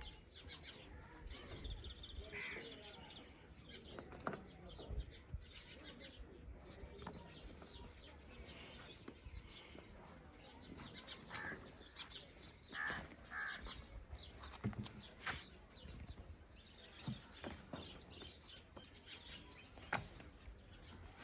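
Faint outdoor ambience with scattered bird chirps and occasional short clicks.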